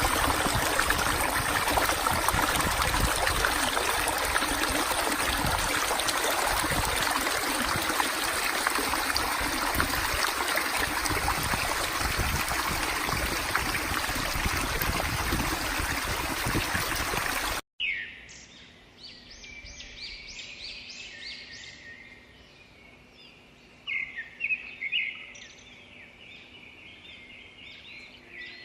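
Steady rush of flowing river water that cuts off abruptly about seventeen seconds in, followed by many small birds chirping over a quiet background.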